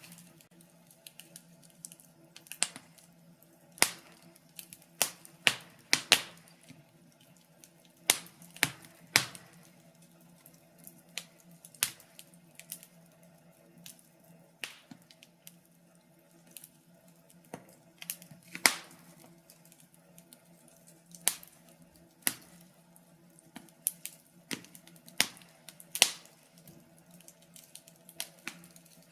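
Wood fire crackling: irregular sharp pops and snaps, one every second or two, some much louder than others, over a faint steady low hum.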